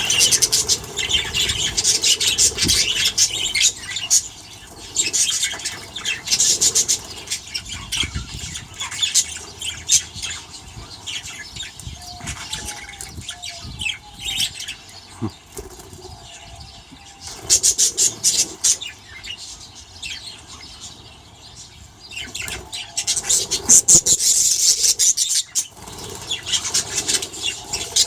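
A flock of budgerigars chattering and chirping in bursts of rapid, high calls, with quieter stretches between.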